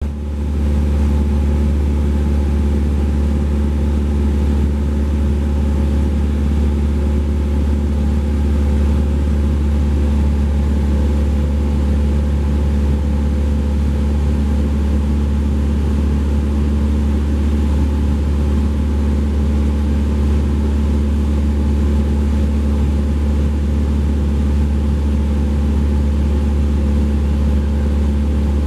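Engine and propeller of a Cessna 172P (four-cylinder Lycoming O-320) droning steadily in flight: a constant low hum with a steady tone above it and no change in power.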